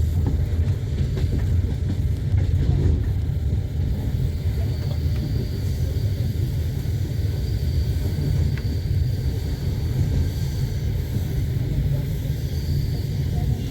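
Passenger train running on the rails, heard from inside the carriage: a steady low rumble of wheels and running gear, with a faint high whine that comes and goes.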